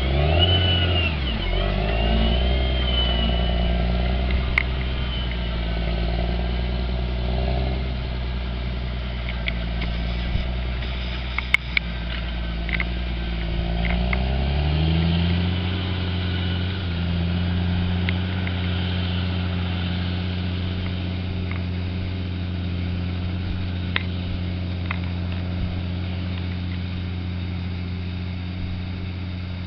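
Caterpillar Challenger 765C tractor's diesel engine working steadily while pulling a seven-furrow plough. Its note dips briefly near the start, climbs about halfway through, then holds steady, with a few sharp clicks.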